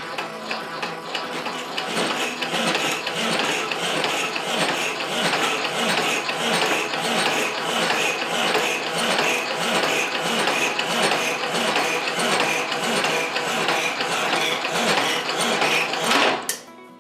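Hacksaw cutting a small metal rod to length with steady back-and-forth rasping strokes, stopping suddenly near the end.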